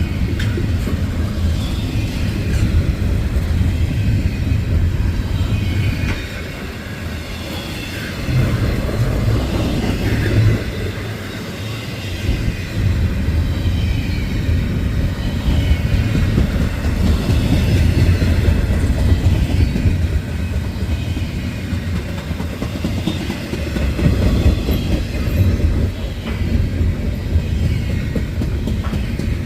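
Freight train rolling past at trackside: a loud, continuous rumble of steel wheels on rail that swells and dips as the cars go by.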